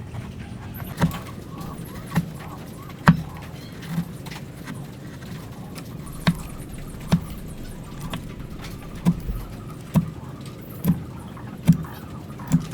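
A mallet knocking on woodwork in steady blows, about one a second, with a short pause near the middle, as in hand-cutting joints.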